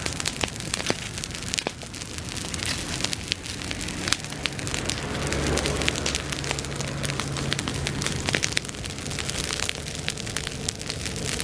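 Bonfire of dried summer grass crackling and popping with many irregular small snaps over a steady hiss. A low rumble swells for a few seconds in the middle.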